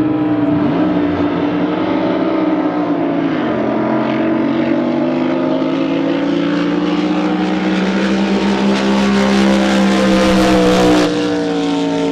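Racing boat engine running hard at high revs, a steady loud note whose pitch steps down about three and a half seconds in and then holds, with an abrupt change near the end.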